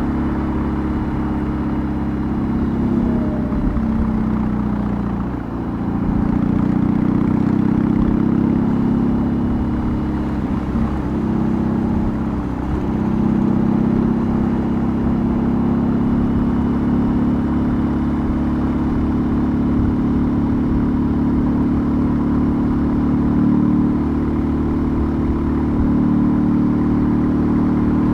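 BMW R18's 1802 cc boxer twin, fitted with a custom exhaust, running steadily while the motorcycle is ridden. The engine note dips and picks up again twice, about five and twelve seconds in.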